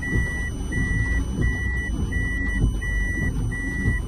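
Electronic vehicle warning beeper sounding a steady high beep, each about half a second long and repeating about every 0.7 s, typical of a proximity or reversing alert, over the low rumble of road traffic.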